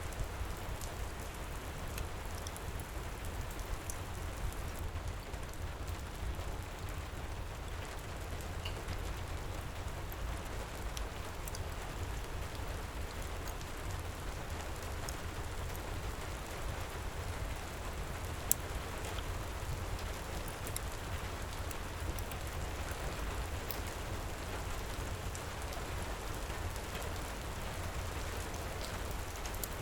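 Heavy rain falling steadily with a low rumble underneath, mixed with the scattered pops of a crackling wood fire, one sharper pop about two-thirds of the way through.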